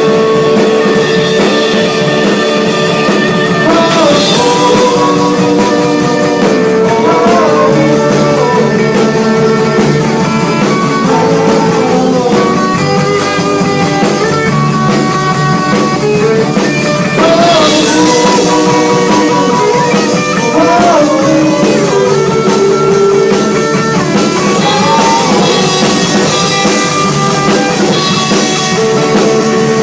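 Rock music played by a band: guitar and drum kit, with a gliding melody line over held notes.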